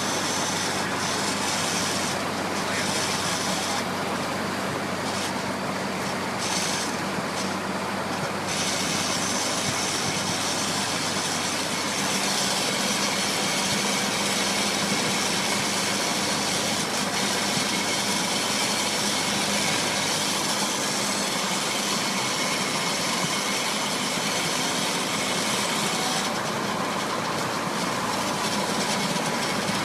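Truck driving at a steady pace: a low engine drone under a constant rushing noise, with an extra high hiss coming and going in the first few seconds and again near the end.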